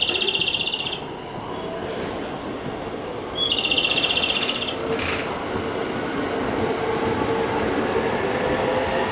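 Electric train moving at a station platform, its rumble growing steadily louder with a steady motor tone. Two short high trilling beeps sound, one at the start and one about three and a half seconds in.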